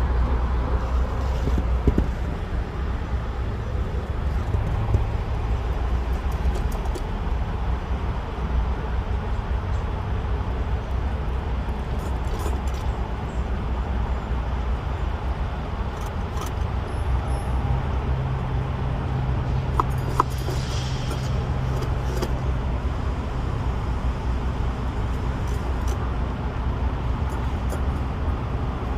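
Semi truck's diesel engine running with a steady low rumble, a few light clicks and rattles over it.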